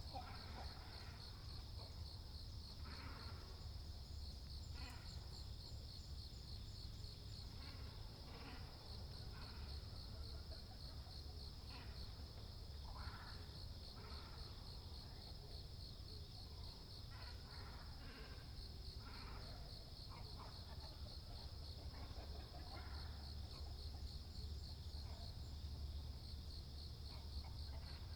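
Short, irregular calls of waterbirds at a pond, great cormorants and herons, sounding every second or two over a steady, evenly pulsing insect trill.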